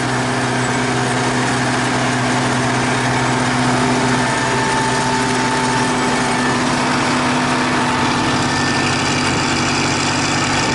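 T-150K tractor's diesel engine running steadily under load, pulling a cultivator slowly in second gear through heavy going.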